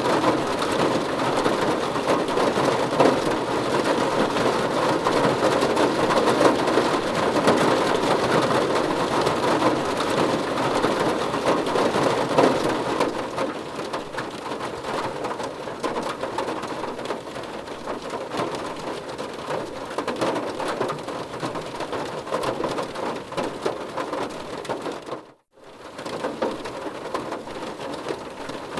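Steady heavy rain, a continuous hiss of falling water. It drops in level about halfway through and cuts out completely for a moment near the end before coming back.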